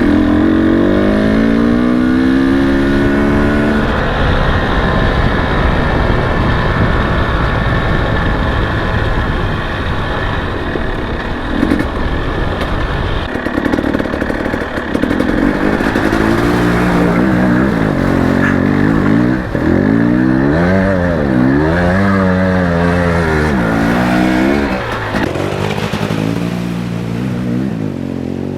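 Enduro dirt bike engine running under way, its revs climbing over the first few seconds, then rising and falling again and again through the second half as the throttle is worked, over a steady rushing noise.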